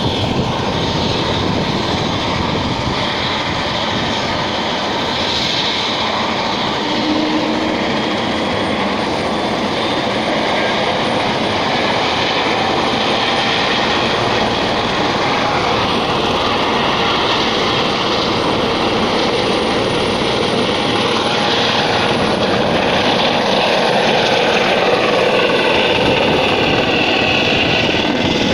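Helicopter taking off: steady rotor and turbine engine noise with a faint high whine that rises slowly in pitch, growing a little louder near the end.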